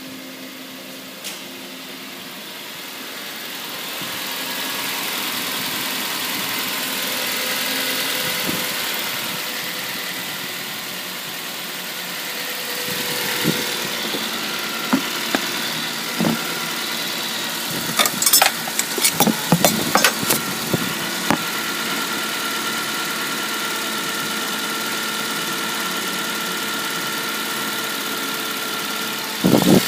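Toyota 1G-FE 2.0-litre inline-six engine running at idle on a test run before removal. It grows louder a few seconds in, a series of sharp clicks or knocks comes between about 13 and 21 seconds, and a brief loud thump comes near the end.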